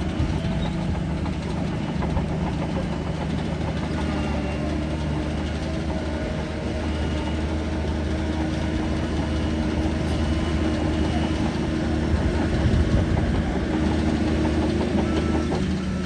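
Crawler bulldozer's heavy diesel engine running steadily. Near the end, a reversing alarm starts beeping.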